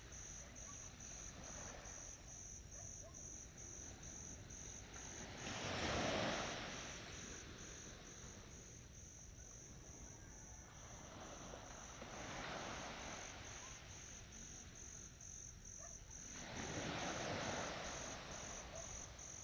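Ocean waves breaking and washing on the shore in three slow swells, the loudest about six seconds in. Throughout, crickets chirp in a steady, fast, high-pitched pulse.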